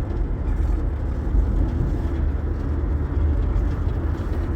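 A steady, loud, low rumble with an even noise above it and no distinct events.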